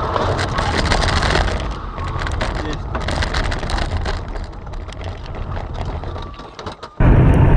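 Car road noise heard from inside a moving car, with a scatter of sharp clicks and crunches, slowly fading. About seven seconds in it cuts off suddenly to a louder, steady low engine drone.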